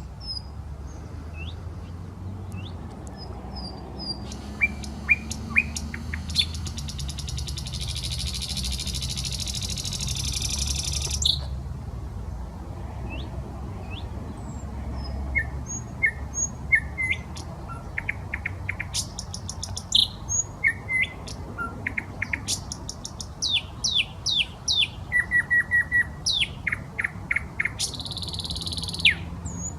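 A nightingale singing in separate phrases with pauses between them: sharp clicking and whistled notes, a long dry rattling trill lasting about seven seconds, then fast series of loud repeated notes.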